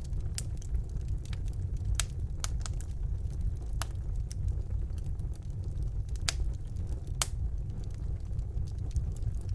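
Fire burning in a fireplace: a steady low rumble of flames with scattered sharp crackles and pops, the loudest about two, four, six and seven seconds in.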